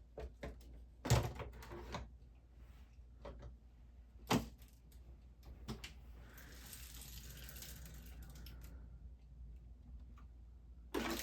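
Handling noises: a few sharp knocks and clicks, the loudest about a second in and another about four seconds in, with a soft hiss for a few seconds in the middle.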